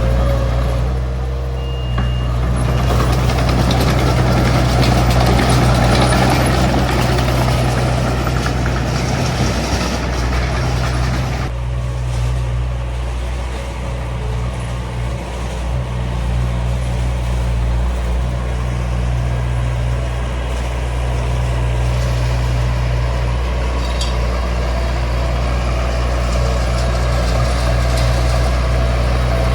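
Diesel engine of a small D20 bulldozer running steadily under work. For the first ten seconds or so a louder, noisier layer sits over the engine, then drops away suddenly about eleven seconds in.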